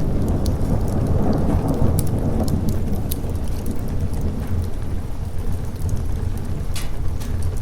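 A low thunder rumble swelling over the first few seconds and then easing, over steady rain. Scattered sharp pops from a crackling fireplace run throughout.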